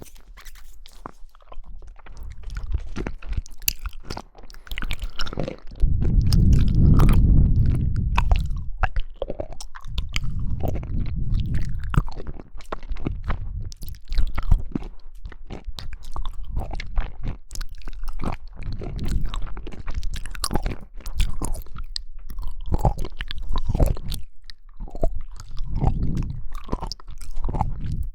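Close-miked chewing and biting of jelly: wet clicks and squelches, with a heavier, louder stretch about six to eight seconds in.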